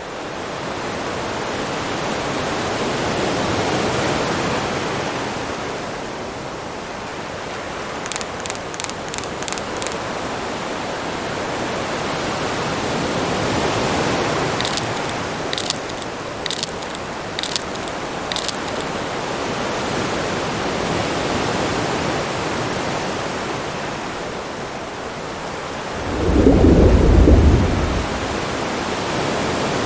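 Steady rushing underwater ocean noise that swells and ebbs, with two short runs of sharp, high clicks in the first half and a loud low rumble near the end.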